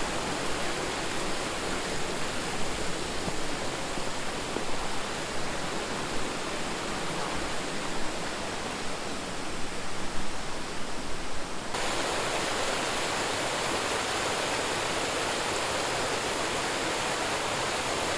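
Rushing water of a fast mountain stream and falls, a steady rush. About two-thirds of the way through it switches suddenly to a smoother, brighter rush.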